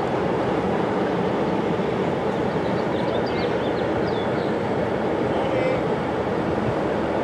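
Steady rumbling noise of a train running, with a few faint high chirps around the middle.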